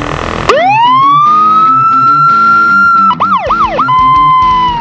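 Police car siren winding up to a long high wail about half a second in, breaking into three quick yelps, then wailing again and starting to wind down near the end. Background music with a guitar plays under it.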